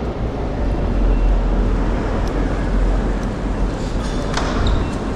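Steady low rumble of vehicle noise, with a few light clicks near the end.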